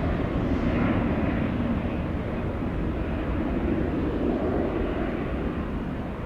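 Jet airliner engine noise, a steady rumble that slowly fades.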